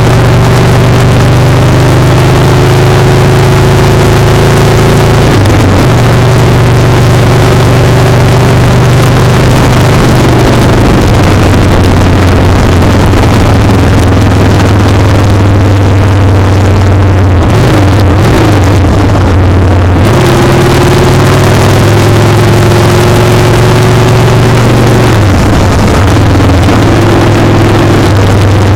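Motorcycle engine running under way, with heavy wind and road noise on the microphone. The engine note breaks and resettles several times, at about five seconds, around seventeen to twenty seconds, and near twenty-five seconds, as with gear changes or throttle changes.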